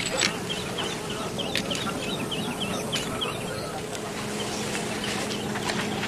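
Birds chirping in a quick series of short high calls over a steady rushing background noise. A low steady hum comes in about two-thirds of the way through.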